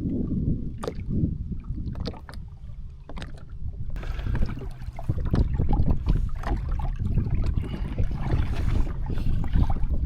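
Water sloshing and splashing around a jet ski, with wind buffeting the microphone and a few knocks. About four seconds in, the splashing becomes louder and harsher.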